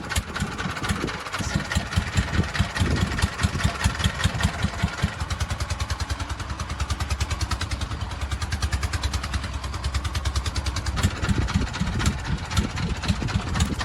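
Fishing boat's engine running with a rapid, steady chugging beat.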